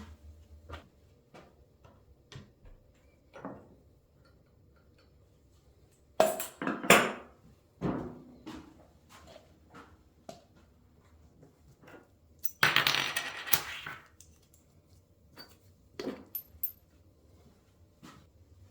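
Metal fork parts and tools clinking and knocking on a workbench, with a louder clatter about six seconds in and a longer rough, scraping clatter around thirteen seconds.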